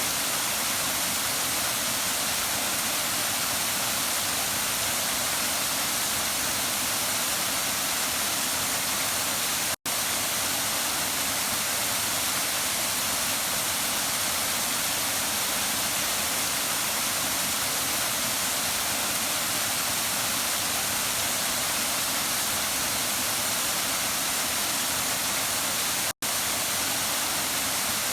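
Waterfall rushing steadily, a constant hiss-like roar of falling water. The sound cuts out for an instant twice, about ten seconds in and near the end.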